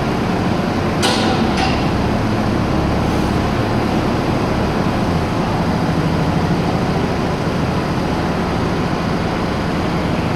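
Volvo BL70 backhoe loader's diesel engine running steadily, with two short sharp bursts of noise about a second in.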